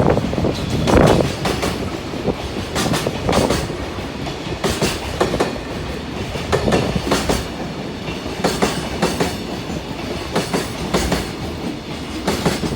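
Freight train wagons rolling past, their wheels clattering over rail joints in regular pairs of clacks about every two seconds over a steady rumble.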